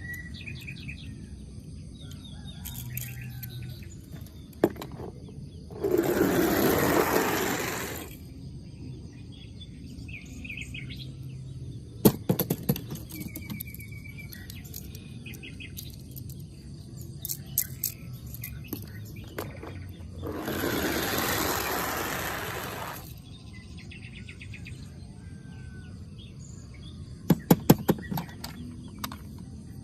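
Birds chirping faintly against a steady outdoor background, with clusters of sharp clicks a few times and two loud rushing noises, each lasting about two seconds.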